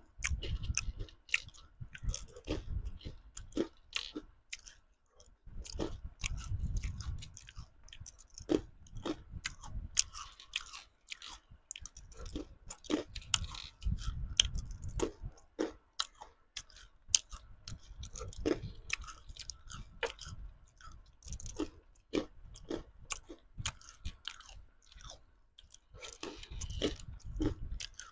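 Close-miked chewing of candy-coated chocolate beans: many sharp crunches of the sugar shells over soft, low mouth sounds, coming in bouts with short pauses between them.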